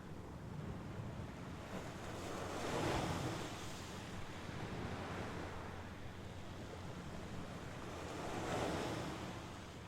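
Mediterranean Sea waves breaking on the shore, two washes swelling and fading about three seconds and eight and a half seconds in, over a steady low rumble of wind on the microphone.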